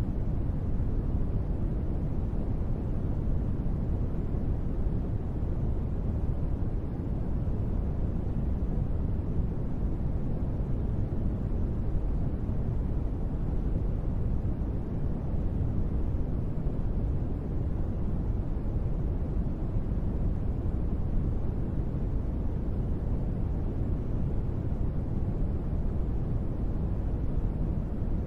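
Steady, unbroken white noise of the kind played for sleep, deep and rumbling rather than hissy, with most of its weight low and little treble.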